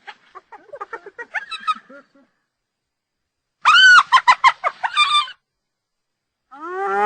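Spotted hyena calls: a quieter run of short, rapid giggling notes, a pause of over a second, then a loud arching call that breaks into a fast staccato giggle. Near the end a rising whoop begins.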